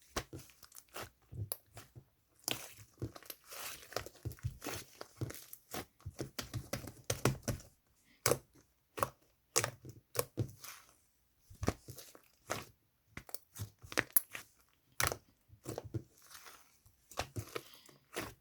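Slime being handled by hand, giving irregular sticky pops and crackles, some in quick clusters.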